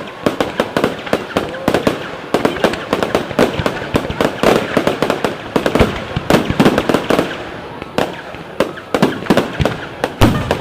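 Fireworks display going off in rapid succession: a dense, continuous run of sharp bangs and crackles, several a second.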